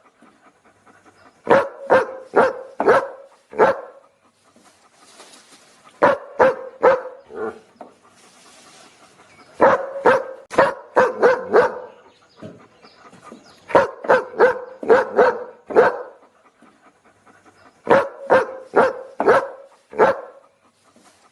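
A dog barking in quick volleys of about five or six barks each, one volley roughly every four seconds, with short pauses between.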